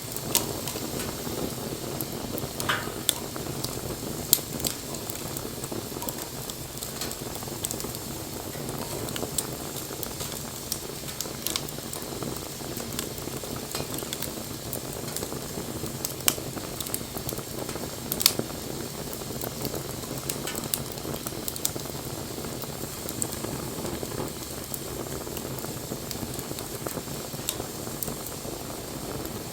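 Wood campfire burning: a steady rush of flame with frequent sharp crackles and pops from the burning wood, and a short thin hiss about three seconds in.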